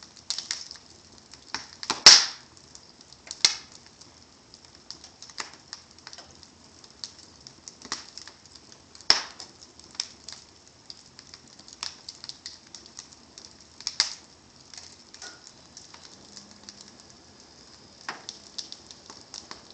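Wood fire crackling and popping: irregular sharp snaps over a faint steady hiss, with the loudest pop about two seconds in.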